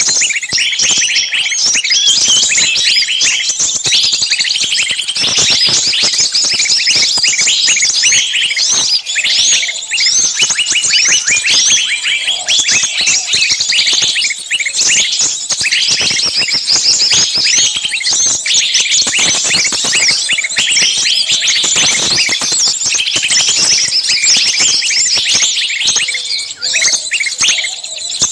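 Dense, continuous chirping of many small birds at once, a flock chattering without a break.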